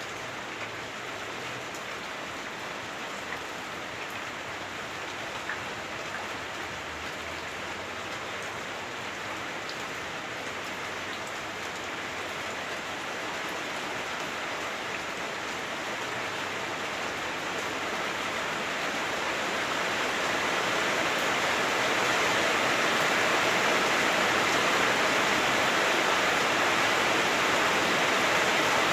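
Heavy rain drumming on a house roof, heard from indoors, with a few single drops ticking through it. The downpour grows steadily heavier about two-thirds of the way in.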